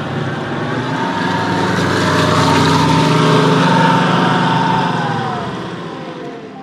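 RC model boat's small motor running as the boat passes by: louder to a peak midway, then fading, its pitch dropping as it moves away.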